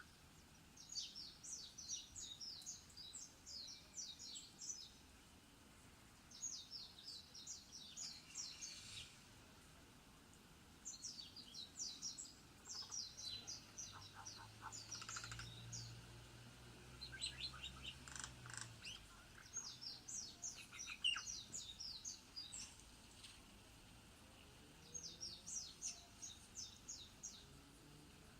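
A bird singing over and over: about six bursts of quick, high, downward-sweeping notes, each burst lasting two to three seconds with short pauses between.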